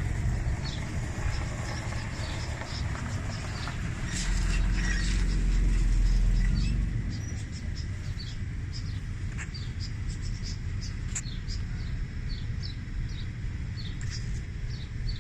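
Outdoor ambience of many short, high chirps scattered throughout, over a low wind rumble on the microphone that swells for a few seconds in the middle.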